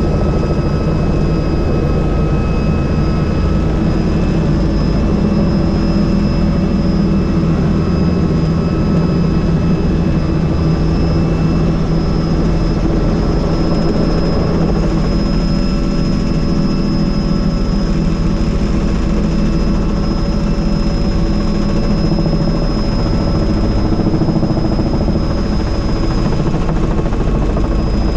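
Helicopter engine and rotor running steadily, heard from aboard the open, doors-off cabin, with a steady high whine over the low rotor noise.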